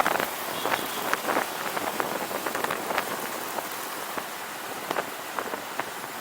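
Steady hiss with many scattered sharp ticks and crackles, picked up by a camera riding on a moving motorcycle in city traffic.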